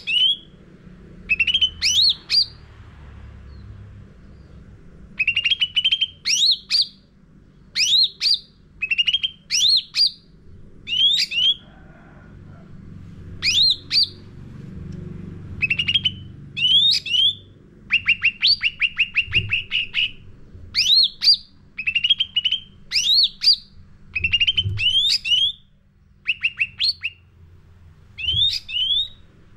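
Cucak ranting songbird singing energetically: short, loud phrases of quick rising whistled notes repeated every second or two, some as rapid runs of notes, over a faint low hum.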